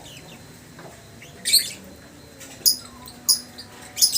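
Lovebird calling: four loud, shrill, very high-pitched screeches, each well under half a second and spaced roughly a second apart, with softer chirps between them.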